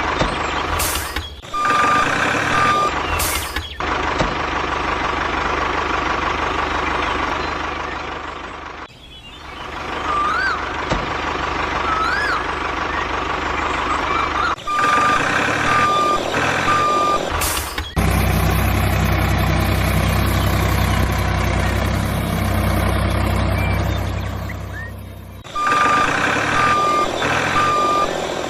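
Truck reversing alarm beeping in runs of evenly spaced beeps over a running engine, with abrupt cuts between sections. In the middle stretch a steady, deep engine hum takes over.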